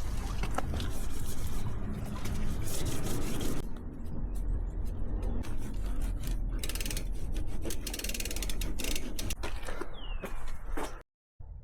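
Scrubbing and mechanical clicking from a bicycle being cleaned, with many short clicks and several abrupt changes, cutting briefly to silence near the end.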